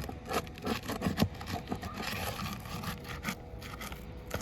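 Roofing pry tool scraping and prying under an asphalt 3-tab shingle in irregular strokes with sharp clicks, working the shingle loose from its nails.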